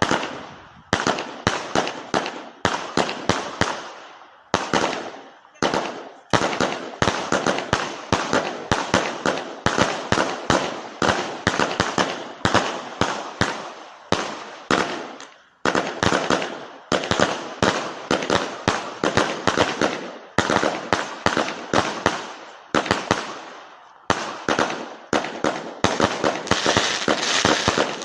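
Vulcan 'Keep Up' consumer firework firing a rapid run of shots and bursts, several bangs a second, each dying away quickly, with a few short lulls. Near the end the shots crowd together into a dense crackling finale.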